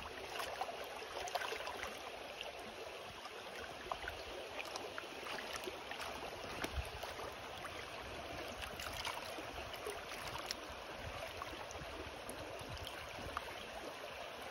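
Steady rush of flowing stream water, with scattered light clicks and knocks over it.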